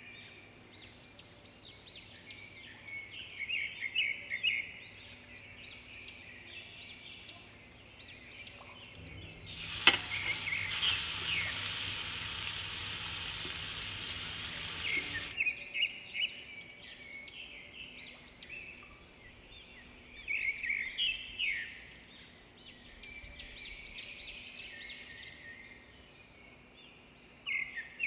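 Grated carrots sizzling in hot ghee in a kadhai: about ten seconds in, a loud even hiss sets in with a click, runs about six seconds and cuts off suddenly. Birds chirp in short bursts throughout.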